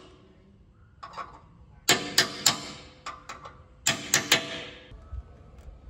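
Hammer striking metal in quick sets of three blows, with lighter taps between the sets.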